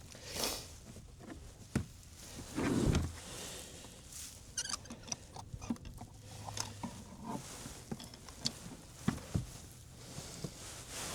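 Scattered light clicks, taps and knocks of fishing gear being handled in a boat, with one louder dull thump about three seconds in.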